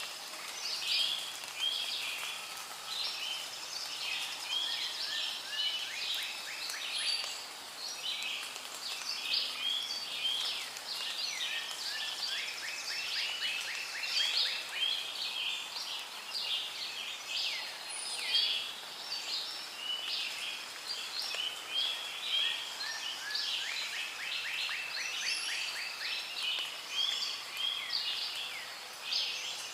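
Rainforest ambience: a dense chorus of many birds calling at once over a faint hiss, with rapid trilled runs rising out of it several times.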